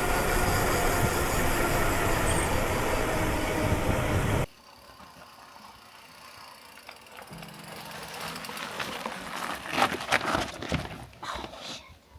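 Rush of wind and tyre noise from a loaded mountain bike riding a rough volcanic trail, loud and even; it cuts off abruptly about four seconds in. A quieter stretch follows, with crunching and scraping on loose rock that grows busier near the end.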